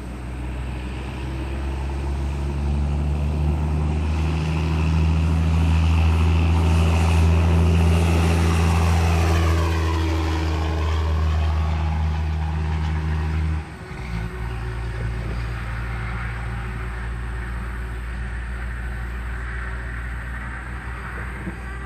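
Motor vehicle running: a loud, steady low drone that builds over several seconds, then cuts off abruptly about 14 seconds in, leaving a quieter steady drone.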